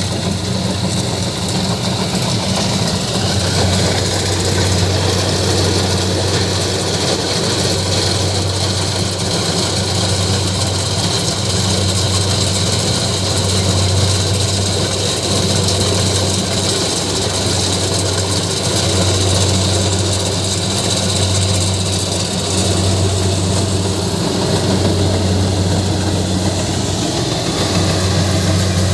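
Rice combine harvester running steadily: a constant low engine hum with a steady high whine above it.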